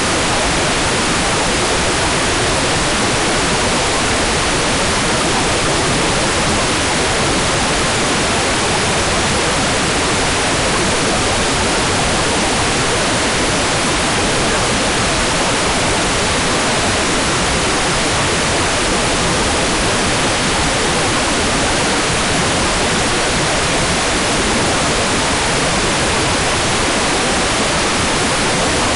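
Hair dryer running steadily: an even, unbroken rush of blowing air.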